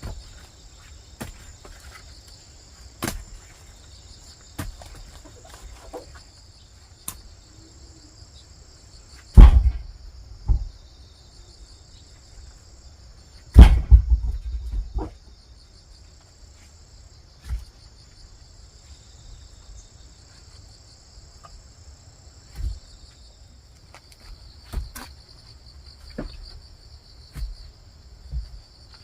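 Crickets chirring steadily and high-pitched, with scattered light knocks and two loud, deep thumps, about nine and fourteen seconds in.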